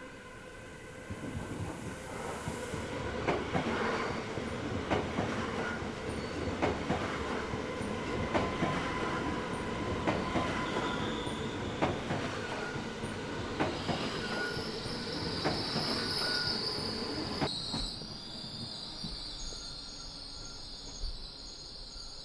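A train running on rails, with evenly spaced wheel clicks over rail joints about every second and a half and a high wheel squeal that builds in the middle. Near the end the sound drops abruptly to a quieter rumble.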